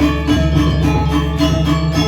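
Balinese gamelan music: bronze metallophones ringing in a fast, even beat of about four strokes a second over a steady low hum.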